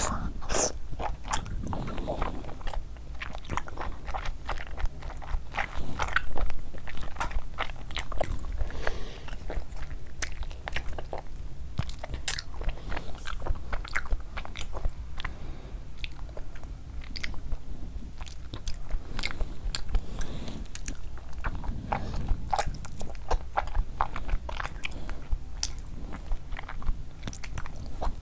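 Close-miked chewing and biting of fufu dough with chicken and egg curry, with many short mouth clicks in quick, irregular succession.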